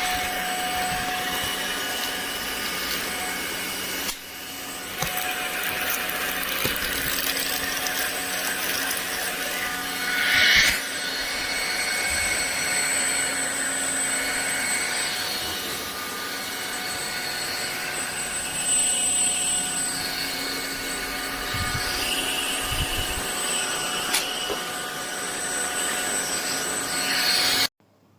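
Ultenic U16 Flex cordless stick vacuum running steadily with a high motor whine. It swells briefly louder about ten seconds in, then cuts off suddenly near the end.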